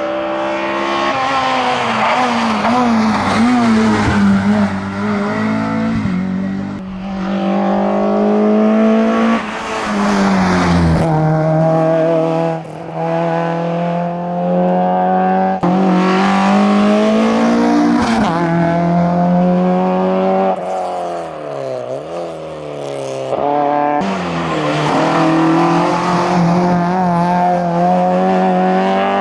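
Hill-climb rally cars at full throttle: a Renault Clio RS passing, then, from about six seconds in, an Opel Kadett GSi 16V's 16-valve four-cylinder revving hard. Its engine note climbs with each gear and drops at each upshift, several times over.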